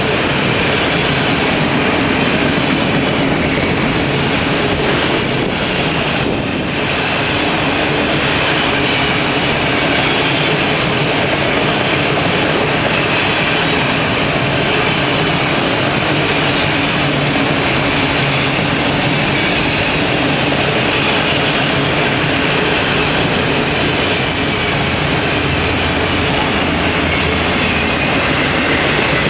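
Autorack cars of a long freight train rolling past: a steady, loud noise of steel wheels running on the rails.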